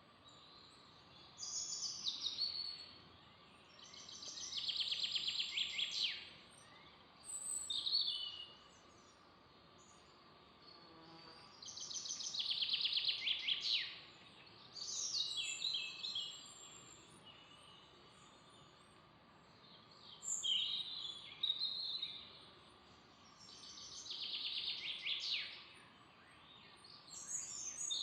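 A songbird singing short, loud phrases of rapid trills, repeated every three to four seconds, over a faint steady background hiss of the forest.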